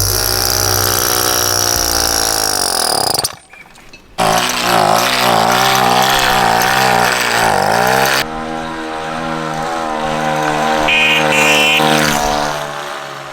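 A small engine running, its pitch falling away over the first three seconds before a brief drop-out. It is then revved up and down in waves for about four seconds, then runs steadily, with a short high double beep near the end.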